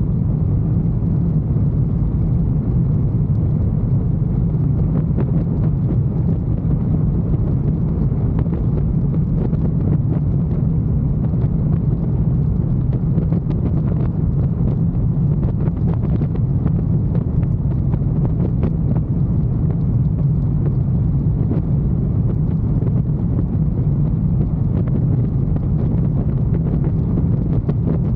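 Motorcycle running at a steady pace while being ridden: an even low rumble with no changes in speed or pitch.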